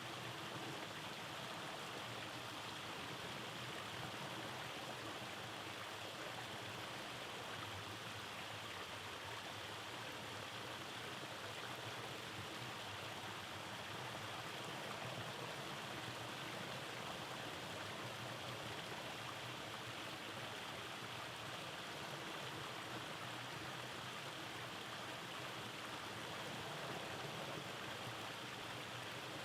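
Rainforest stream flowing over cascades: a steady, even rush of water.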